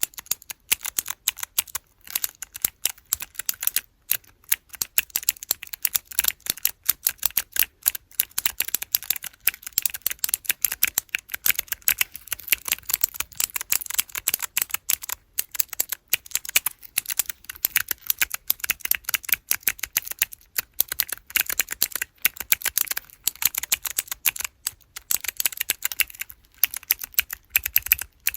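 Rapid, continuous clicking of keyboard keychain blocks fitted with blue mechanical switches, each press giving a sharp click.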